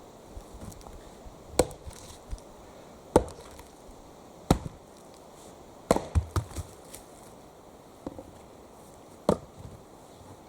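Axe chopping into wood: five heavy strikes about a second and a half apart, the fourth followed by a few lighter knocks, then a longer pause before the last.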